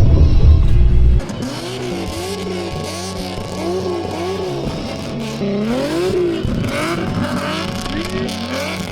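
A car engine revving up and down over and over, its pitch rising and falling in quick repeated swells, with steady background music underneath.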